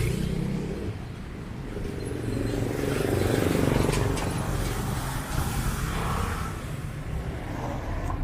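Street traffic: motor vehicles running past on a narrow street, with one passing close and loudest about three to four seconds in.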